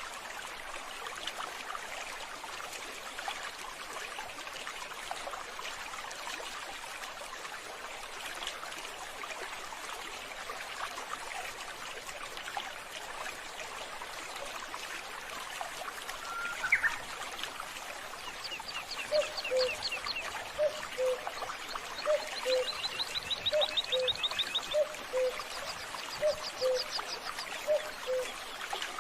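Steady trickle of running water. Over it, birds call: a short rising chirp about two-thirds of the way through, then rapid high trills and a repeated low two-note call, about every three-quarters of a second, over the last ten seconds.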